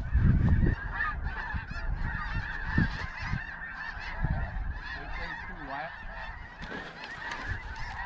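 A large flock of snow geese calling: a dense, steady chorus of many overlapping high honks, with a low rumble in the first moment.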